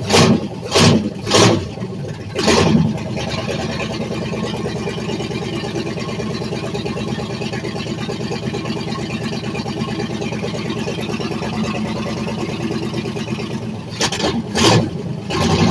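Race car engine being cranked on its starter, trying to fire after sitting unstarted for a while. A few short loud bursts come in the first three seconds, then a steady cranking sound for about eleven seconds. Two more bursts come near the end, and the sound picks up louder again.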